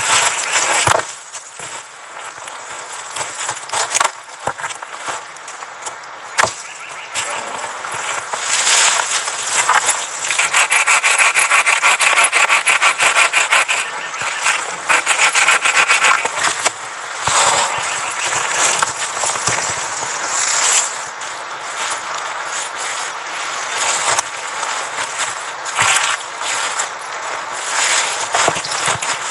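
Wood being sawn by hand, in uneven bursts of strokes with a faster, louder run of steady strokes in the middle.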